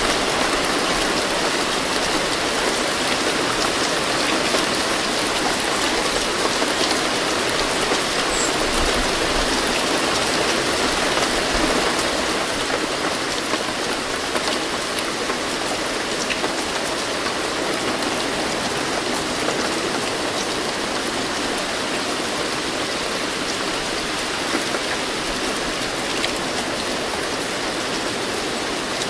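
Steady rain falling, an even hiss dotted with fine drop ticks, with no thunder heard.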